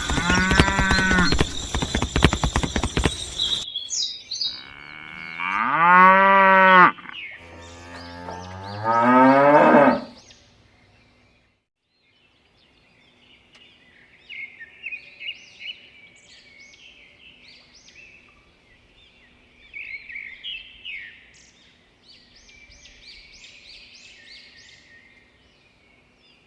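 Cattle mooing: several long, drawn-out calls that rise and fall in pitch. The first is over a rattling noise, and the two loudest come about 5 and 8 seconds in. Faint bird chirps follow through the rest.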